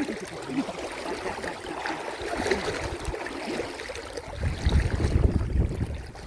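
Water sloshing and splashing, with a low rumble of wind on the microphone setting in about two-thirds of the way through.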